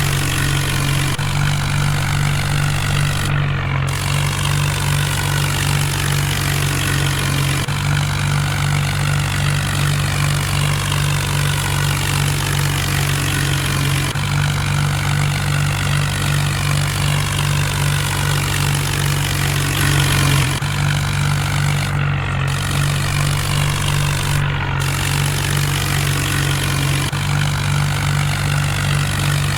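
Mahindra Arjun tractor's diesel engine running steadily, with a fainter whine above it that wavers up and down.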